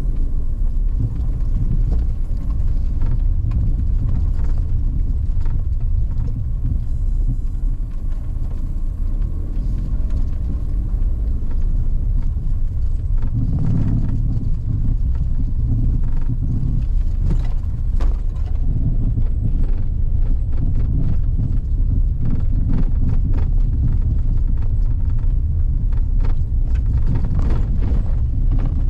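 A vehicle travelling along a forest road: a steady low rumble of engine and tyres, with scattered knocks and clicks from the road surface.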